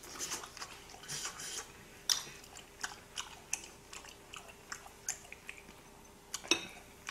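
Close-up mouth sounds of a person chewing grilled pork belly: scattered short wet clicks and smacks, the sharpest about two seconds in and again about six and a half seconds in.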